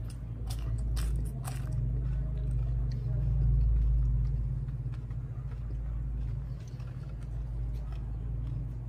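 Crisp crunching bites into a raw green chili, a few sharp crunches in the first two seconds, then quieter close-up chewing. Under it runs a steady low rumble, the loudest thing throughout.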